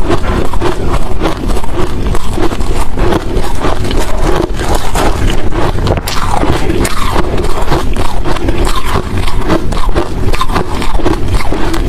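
A person chewing hard crushed ice and shaved ice chunks: a loud, unbroken run of crunching bites.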